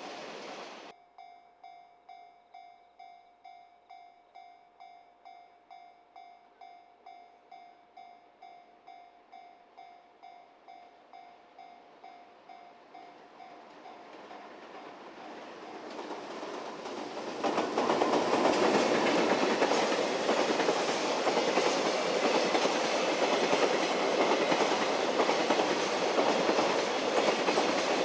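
A level-crossing warning bell rings steadily, about twice a second. Then a freight train approaches and passes close by, its wheels running and clattering over the rail joints, loud enough to drown the bell from about halfway through.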